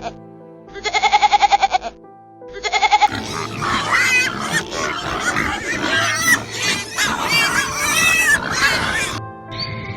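Farm-animal calls over background music. Two short, trembling calls come first, then from about three seconds in a dense stretch of many overlapping squealing cries that stops shortly before the end.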